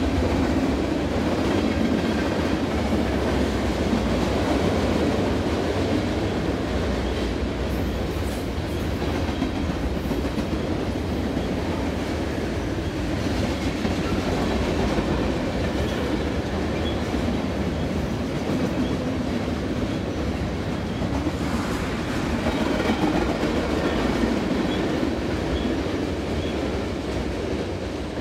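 Freight train of tank cars rolling past, its wheels on the rails making a steady rumble.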